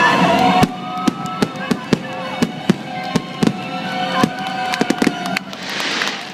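Fireworks going off in a fast, irregular string of sharp pops and cracks over quieter show music, with a hissing burst near the end.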